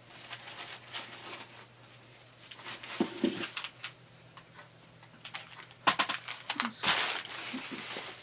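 Packaging crinkling and rustling as it is handled, with a soft thud about three seconds in and a louder burst of crinkling from about six seconds in.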